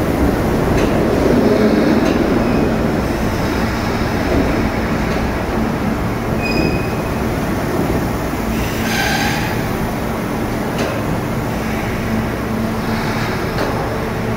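Kintetsu 21000-series Urban Liner plus electric train rolling slowly past along the platform, its wheels rumbling on the rails over a steady low hum. Brief high wheel squeals come about six and a half and nine seconds in.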